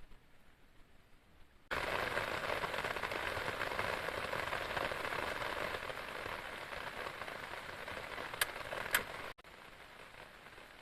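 Steady hiss of heavy rain, starting suddenly about two seconds in and cutting off abruptly near the end, with two sharp clicks just before it stops; fainter rain continues afterwards.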